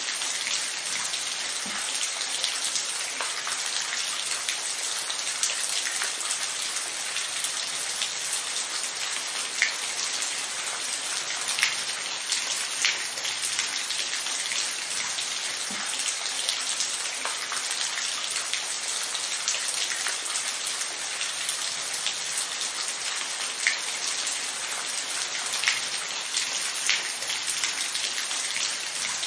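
Steady rain falling, a continuous hiss with many separate drops ticking sharply on a surface, some louder than the rest.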